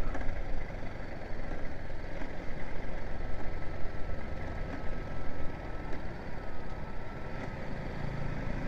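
Single-cylinder engine of a BMW G 310 GS motorcycle running while riding, under a dense, uneven rush of wind and road noise.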